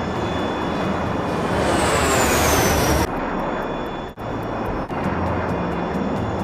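Jet aircraft engine noise running steadily, with a louder rush and a high whine falling in pitch that cuts off suddenly about three seconds in. There are brief dropouts about four and five seconds in.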